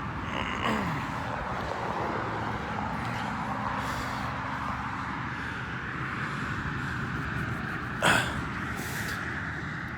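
Steady hiss of highway traffic going by, with a short sharp noise about eight seconds in.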